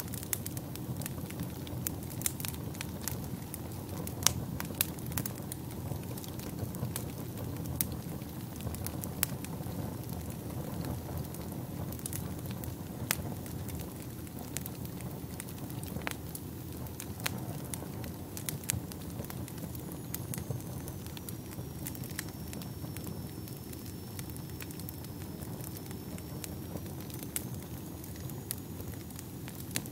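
Fireplace fire burning with a steady low rumble and irregular sharp crackles and pops throughout. A faint high whistle runs through the second half.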